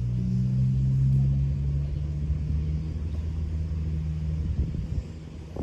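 A large engine running with a steady low rumble and a few held low tones, fading about four and a half seconds in.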